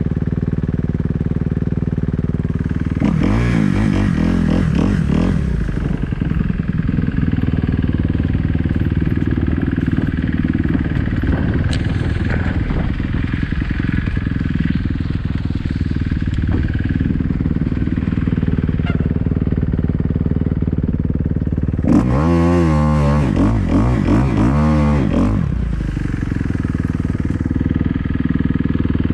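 Kawasaki KX250F four-stroke single-cylinder dirt bike engine running steadily at idle, with two bursts of revving: a short one a few seconds in and a stronger one about three quarters of the way through.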